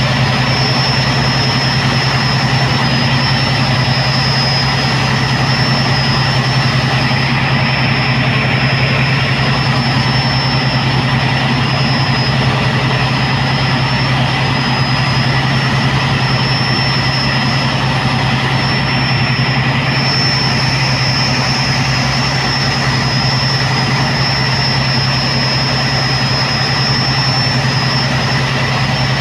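Tugboat's diesel engine running steadily, a constant low hum with a faint high whine above it.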